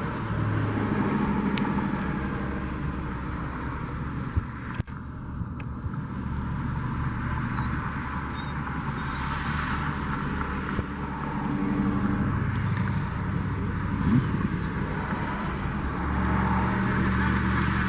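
Steady motor-vehicle noise: a low engine hum that shifts in pitch a few times over a wash of road or wind noise.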